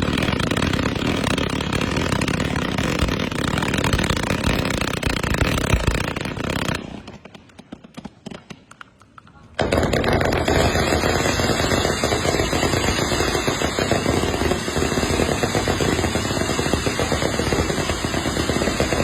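Fireworks going off in a dense, rapid crackle of pops. It dies down about seven seconds in, then comes back abruptly near the ten-second mark.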